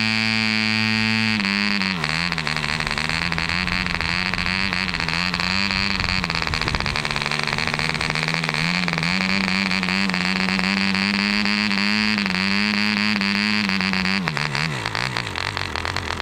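Mills 0.75 cc two-stroke model diesel engine running at high speed while swinging an 8x4 propeller, with a steady high buzz. About a second and a half in, its speed drops a step and then wavers slightly. Near the end it slows down, its pitch sliding lower.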